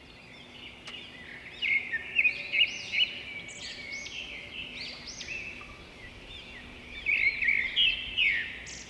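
Songbirds singing and chirping in a string of quick rising and falling phrases, busiest about two seconds in and again near the end, over a faint steady hum.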